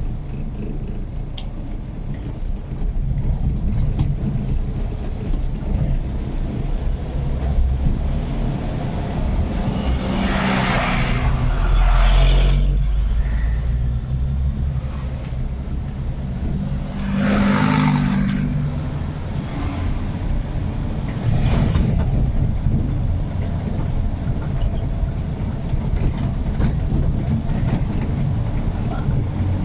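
Old Suzuki Katana driving: a steady low engine and road rumble, with two louder rushing swells about ten and seventeen seconds in.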